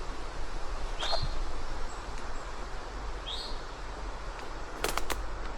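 A songbird giving single short, high chip calls about two seconds apart, with a steady outdoor background. Near the end come two sharp clicks close together.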